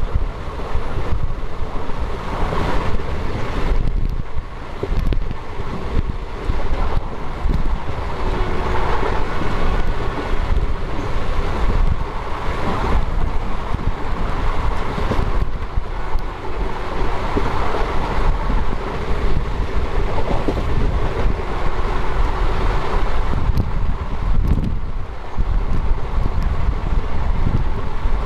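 A train running at speed, heard from its own coach: a steady rumble of wheels on the rails, with wind buffeting the microphone.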